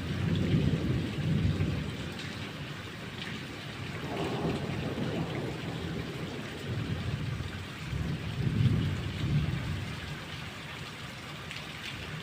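Thunder rumbling in several rolling swells, one near the start, another about four seconds in and a longer one near the end, over the steady hiss of heavy rain.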